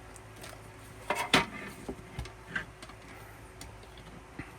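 Hands handling album packaging: scattered light clicks and taps, with a louder cluster of knocks and rustling about a second in.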